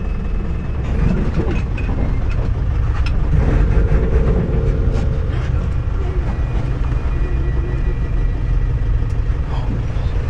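Tour bus engine running with a steady low rumble.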